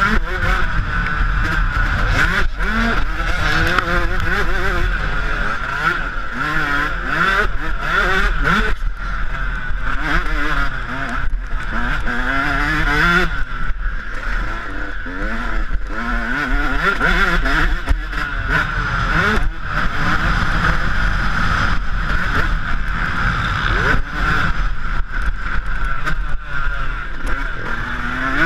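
Yamaha YZ125 two-stroke motocross engine, ridden hard: its pitch climbs and falls again and again as the throttle is opened and shut, with short drops every few seconds.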